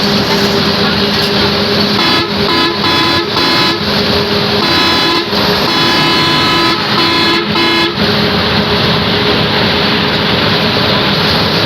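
A vehicle horn honking in a string of short and longer blasts, starting about two seconds in and stopping about six seconds later. Under it runs the steady drone of a running engine with loud road noise.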